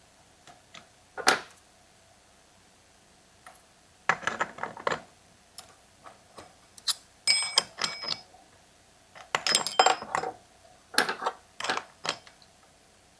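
Small metal chainsaw parts clinking and clattering as they are handled and fitted on the bench: a series of short knocks and clinks, a few of them ringing briefly.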